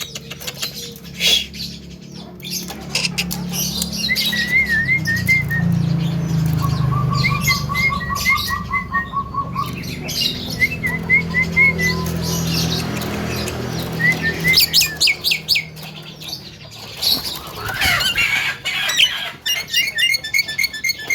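Young Javan myna singing a varied song: runs of quick chirps, a fast trill, sharp clicks and squawks, with a low steady hum underneath.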